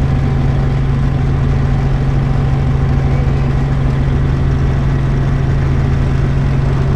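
Helicopter in flight, heard from inside the cabin: a loud, steady drone of engine and rotor with a strong low hum.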